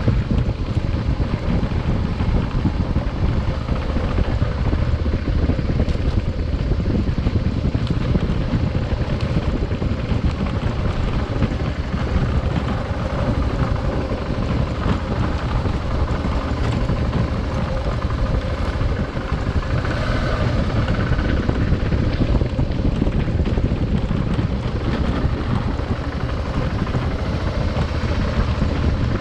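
Adventure motorcycle being ridden, its engine running steadily under heavy wind buffeting on the microphone.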